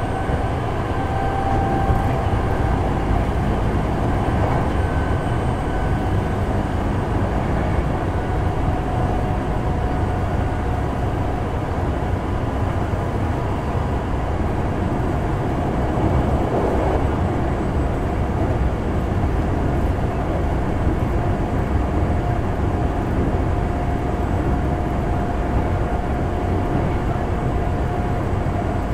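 Kintetsu 6020 series electric train running, heard from inside the car: a steady rumble of wheels on the rails with a thin steady tone running through it.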